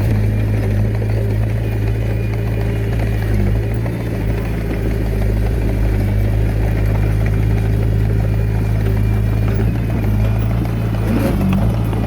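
Komatsu D21A mini bulldozer's diesel engine running at a steady speed.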